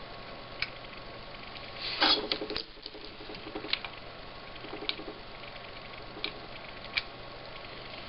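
Small clicks and taps of hands and tools working on a monitor circuit board, with a short, louder scraping burst about two seconds in and a few brief buzzes after it.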